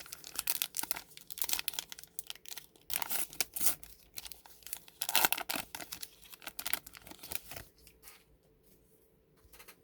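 A baseball card pack wrapper being torn open and crinkled: a dense, irregular crackling that dies down about eight seconds in, leaving a few faint clicks.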